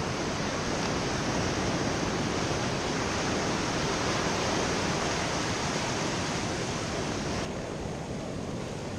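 Ocean surf washing in a steady rush of noise. The higher hiss drops away suddenly about seven and a half seconds in.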